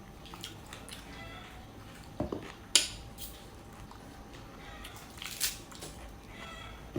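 A person eating pineapple: soft wet chewing, broken by a few short sharp clicks a little over two seconds in, near three seconds and again past five seconds.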